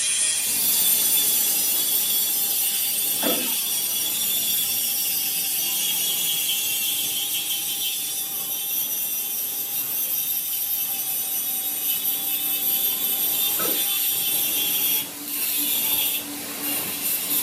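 Workshop tool working metal: a steady rasping mechanical noise with a faint steady whine, dropping off briefly twice near the end.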